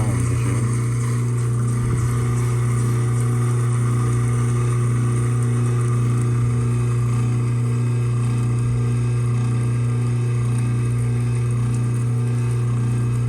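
Kitchen garbage disposal running with a steady, loud motor hum while a cleaning pellet dissolves in it, with hot tap water trickling into the drain.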